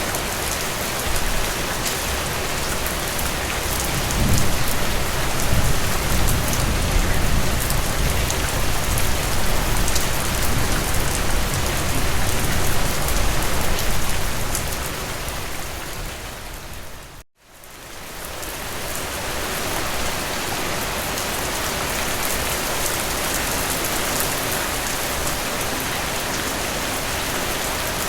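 Steady rain falling. A deeper low rumble swells under it for about ten seconds in the first half; about 17 seconds in, the rain fades out to a moment of silence and fades straight back in.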